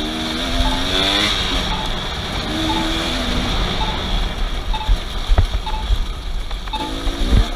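Off-road vehicle engine revving in bursts, its pitch rising at the start, about three seconds in and near the end, over a steady rush of noise and low thumps. A short high beep repeats about once a second.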